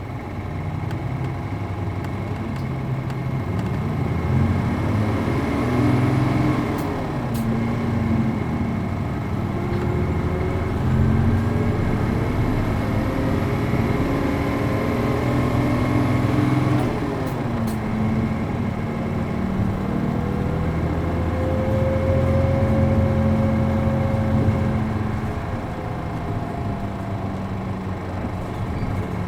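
A city bus's MD92TJ diesel engine pulling hard through the gears of a 5-speed manual, heard from inside the bus. The engine note climbs, drops sharply at the gear changes about 6 and 17 seconds in, climbs again, and eases off near the end.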